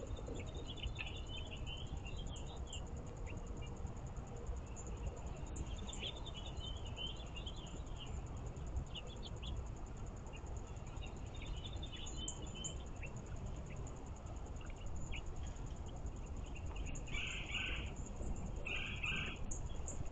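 Small songbirds chirping and twittering in scattered bursts, with two louder, fuller calls near the end, over a steady high-pitched hum and a low background rumble.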